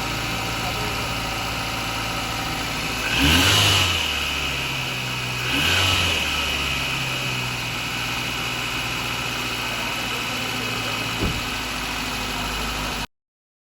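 Suzuki Cultus three-cylinder petrol engine idling steadily, blipped twice: revs rise briefly about three seconds in and again about five and a half seconds in, then settle back to idle. A smaller brief rise comes near the end.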